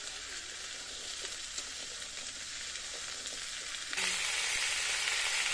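Carrot and potato pieces sizzling as they fry in oil in an iron kadai, stirred with a metal spatula. The sizzle gets suddenly louder about four seconds in.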